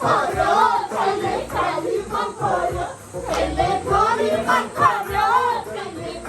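Several voices singing together, with music.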